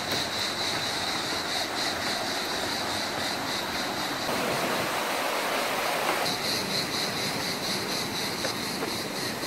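Steady rushing of stream water through a canyon, with a shrill, rapidly pulsing insect buzz high above it that drops away for a couple of seconds in the middle.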